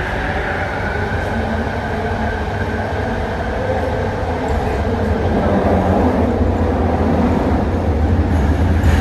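ART200 metro car running, heard from inside the carriage: a steady, loud low rumble of wheels on rail with a high whine that fades away over the first few seconds, the noise growing a little louder in the second half.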